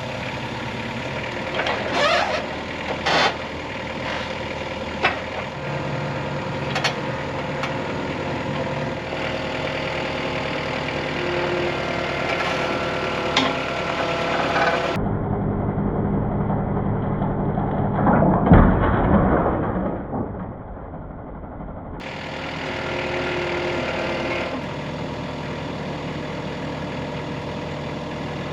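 An engine idling steadily, with a few sharp knocks in the first several seconds and a louder rush of noise a little past the middle.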